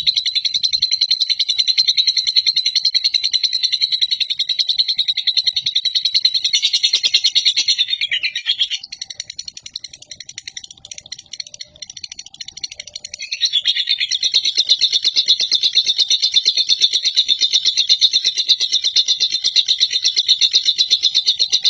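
Lovebird singing its long 'ngekek': a fast, unbroken chattering trill of high notes. It breaks off about eight seconds in for a few seconds of softer chatter, then resumes at full strength about five seconds later. This drawn-out ngekek is the song prized in competition lovebirds.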